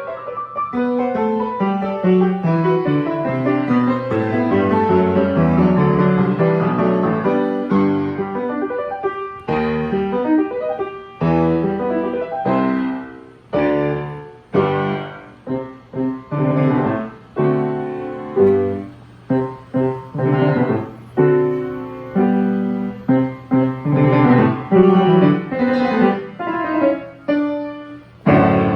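Restored early-1920s Steinway XR Duo-Art reproducing piano playing: a flowing passage of notes, then from about ten seconds in a string of separate strong chords, each fading before the next.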